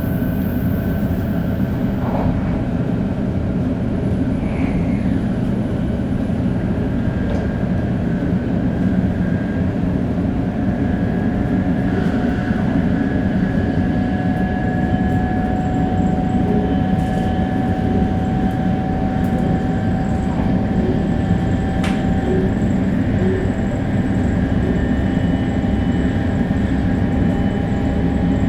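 Running sound of a Shinkansen 500 series train with Toshiba GTO-VVVF traction drive: a steady heavy rumble with faint whining tones, one rising slowly in pitch midway, and a few sharp ticks.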